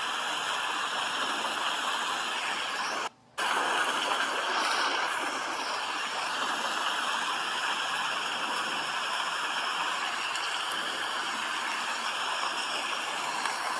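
Steady, dense rain noise, an even hiss. It cuts out abruptly for a fraction of a second about three seconds in, then resumes.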